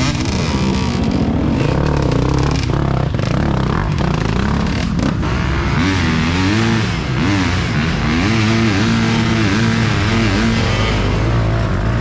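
Off-road racing dirt bike engines revving up and easing off again and again, several bikes at once at times.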